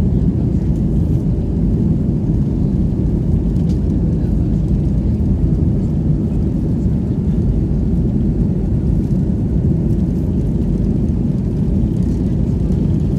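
Boeing 737 MAX 8's CFM LEAP-1B engines and airframe making a steady low rumble.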